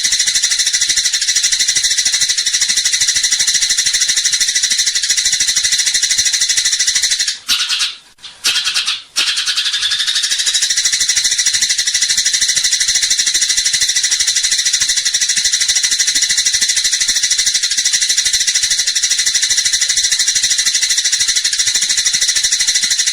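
Eurasian tree sparrows giving their fighting chatter, a dense, unbroken stream of rapid high-pitched chirps. It cuts out briefly a few times around eight seconds in.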